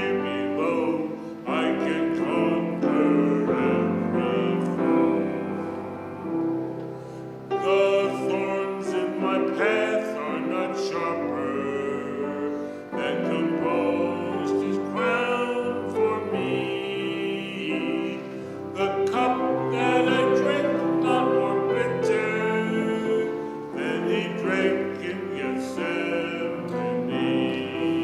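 A singer with a wide vibrato singing a slow sacred song, accompanied by piano.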